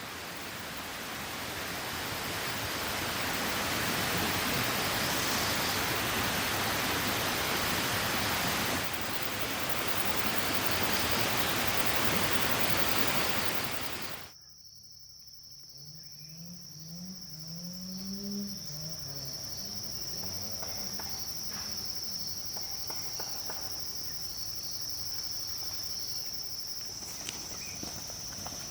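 Rushing water from a stream, a loud steady hiss, for about half the time. It cuts off suddenly to insects calling in one steady high-pitched drone, with a few short low sounds a few seconds after the cut.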